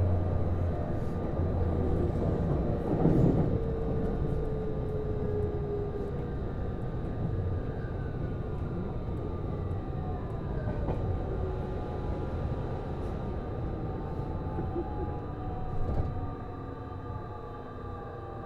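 Interior running sound of a JR East Series HB-E210 hybrid railcar: the whine from its Hitachi IGBT-VVVF inverter and traction motors glides down in pitch as the train slows, over a steady rumble of wheels on rails. There is one short knock near the end.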